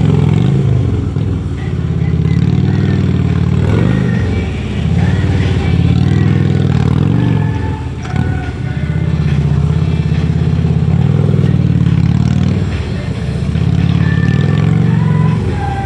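Police motorcycle engine running hard through a tight cone course. The throttle is worked constantly, so the engine note rises and falls every second or two, and the level drops briefly about four, eight and thirteen seconds in.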